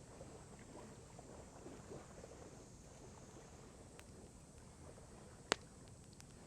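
Wood campfire crackling: a single sharp pop about five and a half seconds in and a few fainter ticks, over a low steady outdoor rumble that lake water or wind on the microphone could account for.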